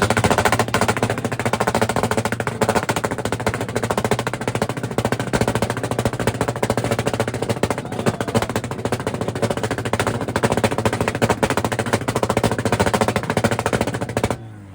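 Car engine held on a two-step launch limiter, firing a rapid, machine-gun-like stream of pops and bangs over a steady engine note. It cuts off suddenly near the end.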